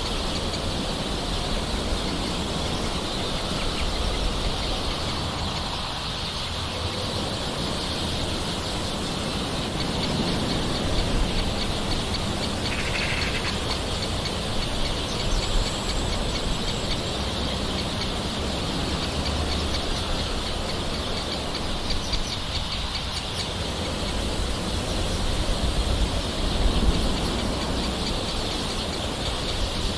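Steady rain, with a few brief bird calls over it.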